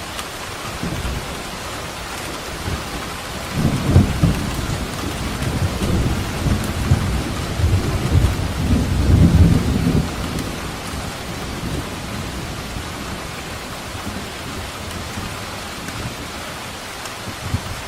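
Steady rain falling, with a long low roll of thunder that rises a few seconds in, swells twice, and fades away after several seconds.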